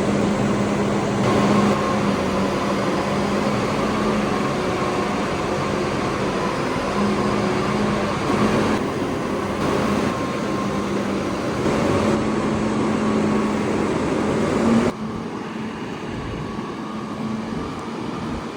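Large farm tractor's diesel engine running steadily as it pulls a grain cart, with a steady low drone. The sound drops noticeably quieter about fifteen seconds in.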